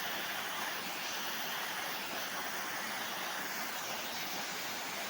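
Waterfall swollen with monsoon rain, its falling water making a steady, even rush.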